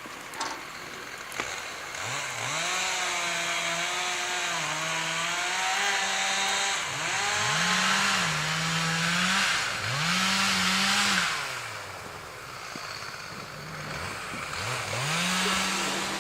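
Two-stroke chainsaw revved up four times, its engine note climbing, sagging and climbing again as the throttle is worked.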